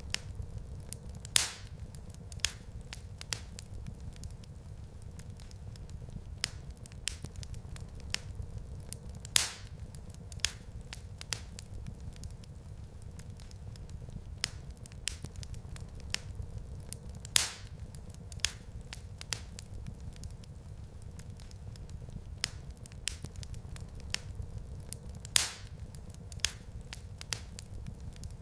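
Wood fire crackling in a fireplace: a steady low rumble of flames with frequent sharp pops and crackles, and louder single pops about every eight seconds.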